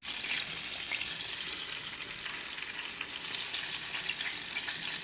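Chicken frying in hot oil: a steady sizzle with scattered small crackles and pops.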